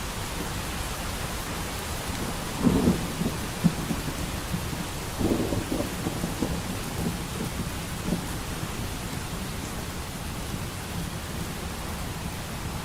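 Steady rain hissing, with distant thunder rolling in two low rumbles about two and a half and five seconds in, trailing off a few seconds later.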